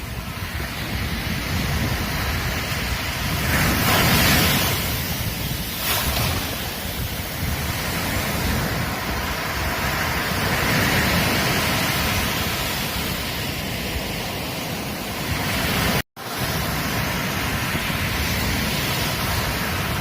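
Ocean surf breaking and washing up a beach in a steady rush, swelling louder about four seconds in and again around eleven seconds. The sound cuts out completely for an instant about sixteen seconds in, then carries on.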